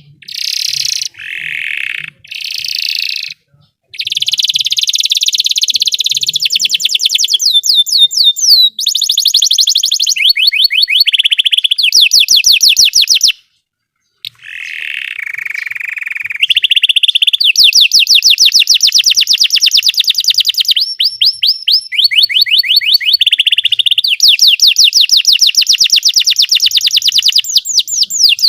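Canary singing: a few short phrases, then long rapid trills of fast repeated high notes, switching to a new trill every second or two, with a brief pause about halfway.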